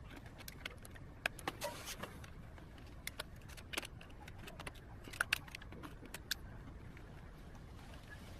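Irregular light metallic clicks and taps of wire being worked with pliers, bunched in short clusters and dying away after about six seconds, over a faint steady low hum.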